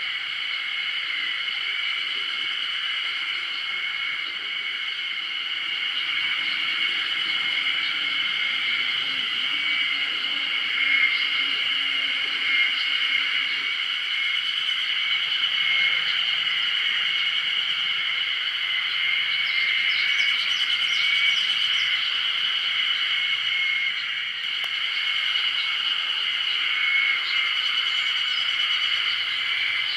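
Steady, unbroken, high-pitched chorus of calling animals in the open, continuous and even in level throughout.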